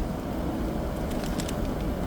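Steady low outdoor city rumble with pigeons close by, and scattered short, sharp clicks and flutters among them.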